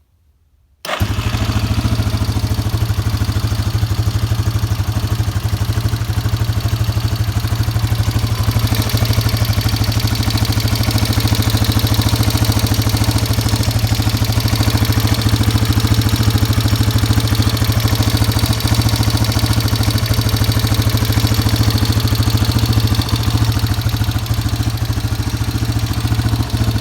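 Yamaha Warrior 350 ATV's single-cylinder four-stroke engine idling steadily with a ticking noise, the sound the owner wants diagnosed. It comes in just under a second in.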